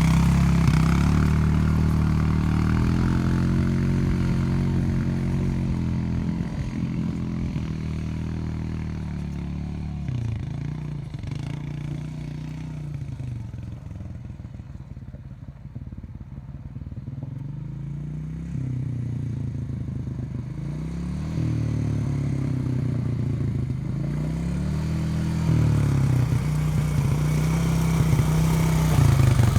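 Off-road vehicle engine running under varying throttle, revving up and easing off again and again. It fades somewhat mid-way and grows louder toward the end, with some clatter and scraping.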